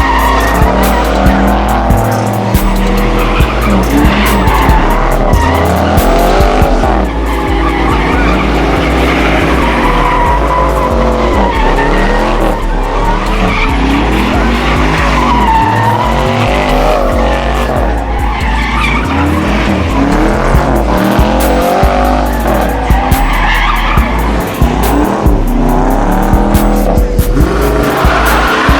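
Cars sliding on pavement: tyres squealing and engines revving in repeated rising and falling waves throughout, over loud bass-heavy music.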